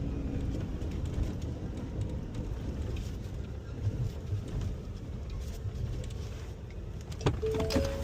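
Small Ford F-550 garbage truck's engine running, a steady low rumble heard from the cab. Near the end come a few sharp clicks and two brief tones.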